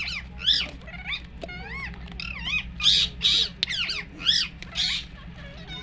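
An animal giving a rapid series of short, high-pitched squawking calls, each swooping up and down in pitch, about a dozen in all.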